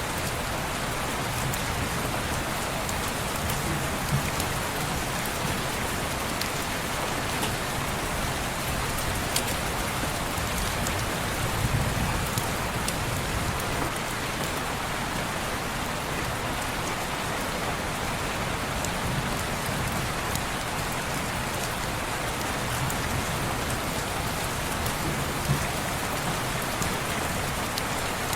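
Steady rain on window glass, an even hiss with scattered faint ticks of drops.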